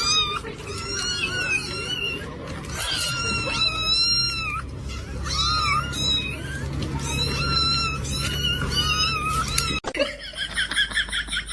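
Kittens mewing over and over in short, high, wavering calls, several overlapping. Near the end the sound cuts to a fast run of high chirps.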